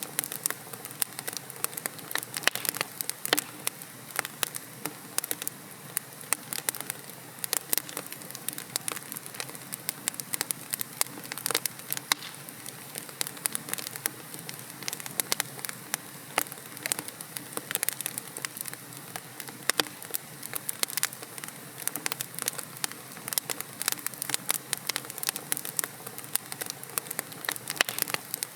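Wood logs burning in a fireplace, with a steady hiss of flame and frequent, irregular sharp crackles and pops.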